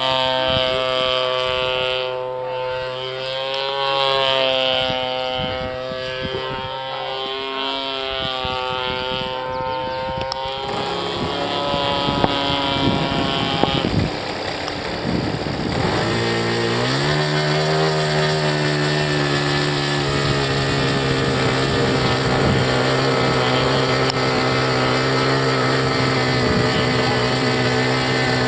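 Small gasoline engine of an RC slab model airplane running, its note wavering up and down. About two-thirds of the way in the pitch rises sharply and then holds steady at the higher note.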